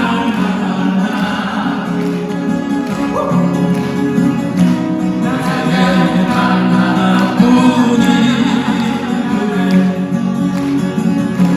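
Male vocal quartet singing in harmony without clear words, over acoustic guitars.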